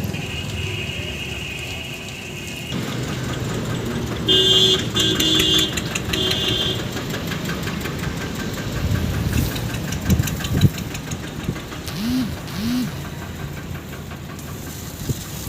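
Engine running steadily, with three short horn honks in a row about four seconds in.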